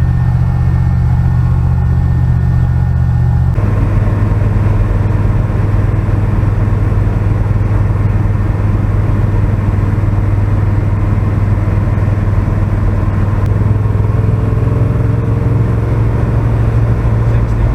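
Pickup truck's engine running while driving on the road: a steady low drone that gets louder and rougher about three and a half seconds in, with road noise.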